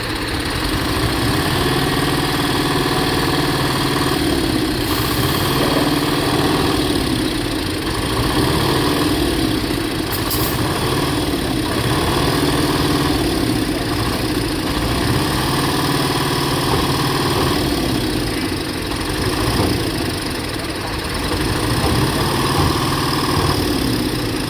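A large vehicle engine running steadily at idle, with a low hum and a higher note that come and go every second or two.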